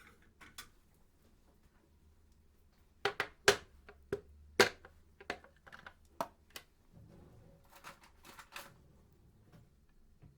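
Irregular sharp clicks and knocks, like small hard objects being handled, with the loudest cluster about three to five seconds in.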